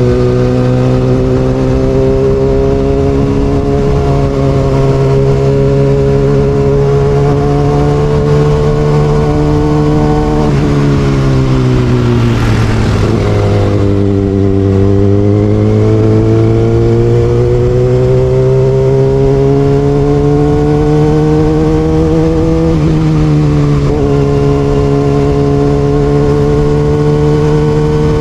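Kawasaki Ninja ZX6R inline-four with an Austin Racing exhaust, running under way at steady revs. The engine note drops in the middle, climbs back up and holds, with a short blip a few seconds before the end.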